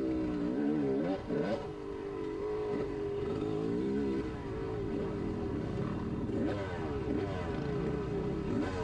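Dirt bike engine revving up and down again and again as the throttle is worked through the trail, pitch rising and falling every second or so.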